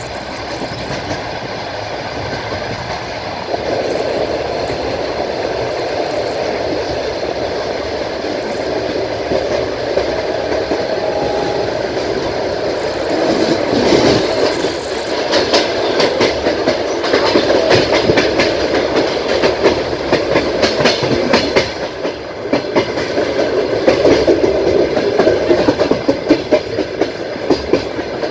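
Passenger train carriage running on the rails: a steady rumble of the wheels on the track, joined in the second half by louder, rapid clicking and clacking of the wheels over rail joints.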